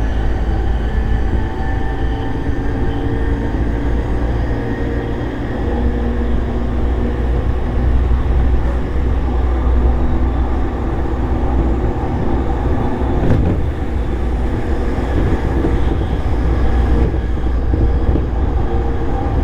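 JR East E233 series electric train running between stations, heard from inside the passenger car: a steady rumble of wheels on rail with the even hum of the traction motors. A single click sounds about 13 seconds in.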